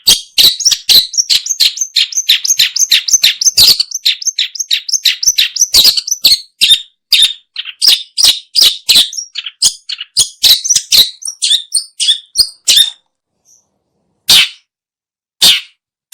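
Long-tailed shrike calling: a fast run of short, harsh, chattering notes, about five a second, that stops about thirteen seconds in and then returns as single spaced calls near the end.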